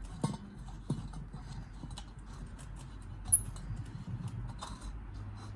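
Several sharp clicks and knocks as the air filter housing's lid is handled and fitted back on, over a steady low hum.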